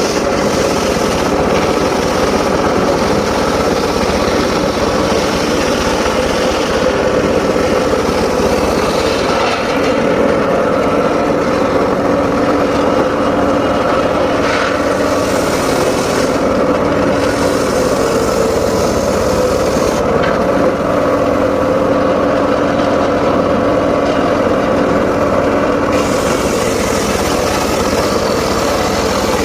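Homemade circular saw running while sawing mahogany: a loud, steady engine-like drone. The higher hiss on top swells and fades every few seconds.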